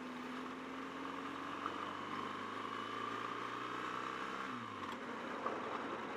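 BMW R1200GS flat-twin engine running under way, its pitch creeping slowly upward, then falling off sharply about four and a half seconds in, over steady road and wind noise.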